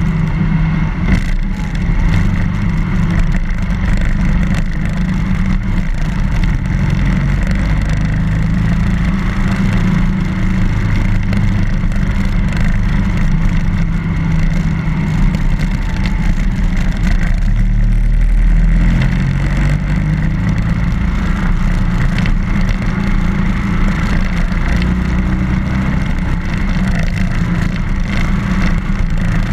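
BMW R1200GS boxer-twin motorcycle engine running under way, its pitch stepping up and down a little now and then as the speed changes.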